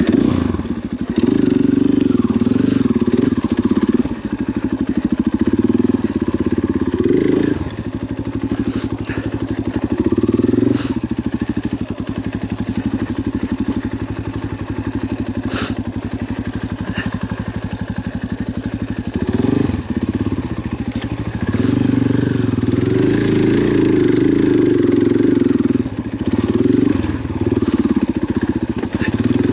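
Dirt bike engine running on a trail ride, its revs rising and falling with the throttle and easing off briefly several times. A few sharp clicks sound over it.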